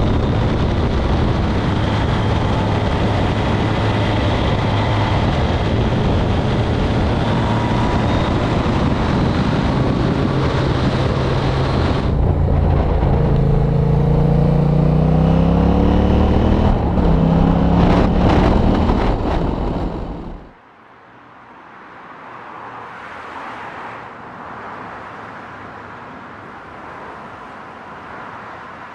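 Motorcycle on the move with heavy wind and road rush and a steady engine note. About halfway through, the engine pitch falls as the bike slows, rises briefly, then the sound cuts off abruptly to a much quieter background.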